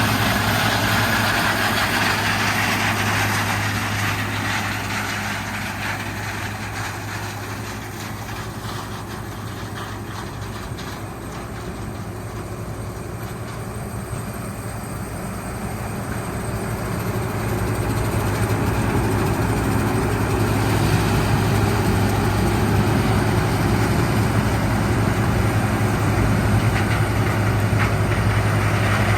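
Heavy diesel engine of farm machinery running steadily with a low hum. It eases off for several seconds in the middle, then comes back up.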